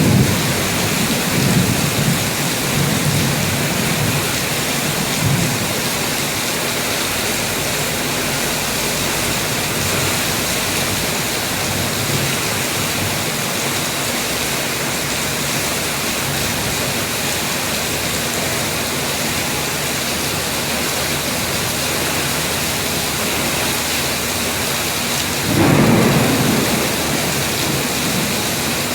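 Heavy rain pouring steadily, with low thunder rumbling in the first few seconds and again near the end.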